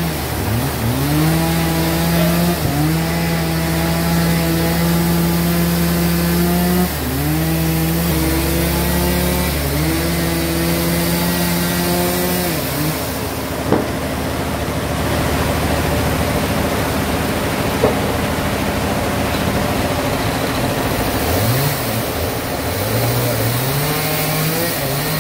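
An engine running over a steady machine hum, its revs dipping and recovering a few times. The revs fall away about halfway through and climb again near the end.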